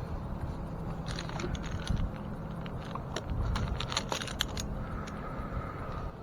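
Light clinking and rattling of a tree climber's metal gear, with a low wind rumble on the microphone.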